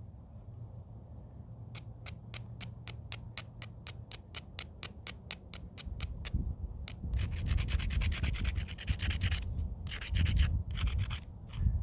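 Stone scraping on stone during flintknapping: quick, regular scraping strokes about five a second, then a longer stretch of continuous rough scratching and a few shorter scrapes near the end.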